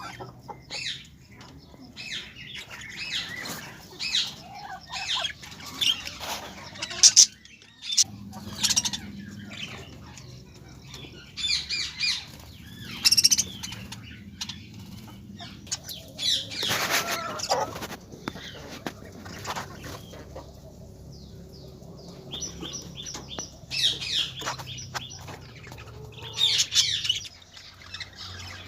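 Birds chirping in short high calls, mixed with irregular bursts of wing flapping.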